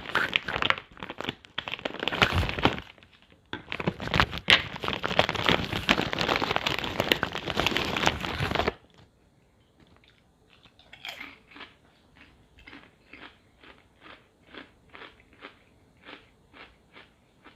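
Bag of Hard Bite potato chips rustling and crinkling loudly for about nine seconds, then crunchy chewing of the chips, about two chews a second and fainter.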